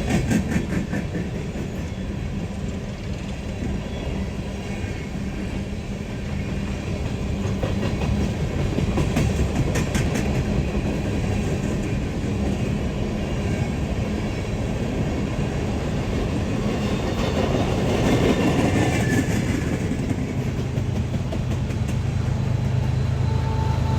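Freight train rolling along the track: a continuous rumble of railcars and wheels with scattered clicks over the rail, and a steady low diesel drone that drops to a lower note near the end.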